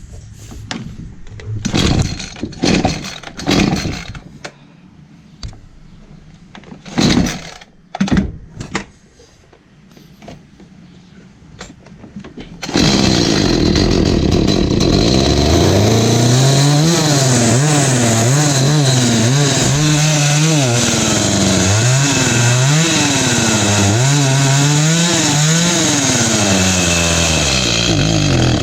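Echo CS310 two-stroke chainsaw being pull-started: a series of short, rough bursts in the first dozen seconds, then the engine catches about 13 seconds in and runs steadily. From then on it is revved up and down again and again with the throttle, and the owner reckons it more than likely still needs its carburetor high- and low-speed settings adjusted.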